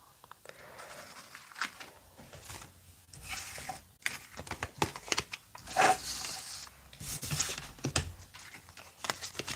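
Tarot cards being handled and gathered on a table: irregular rustling and crinkling with scattered soft clicks.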